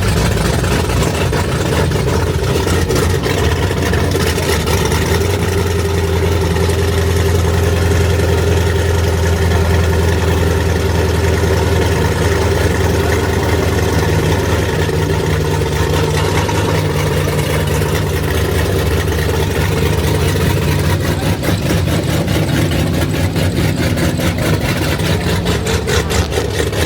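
Car engine running steadily with a low hum.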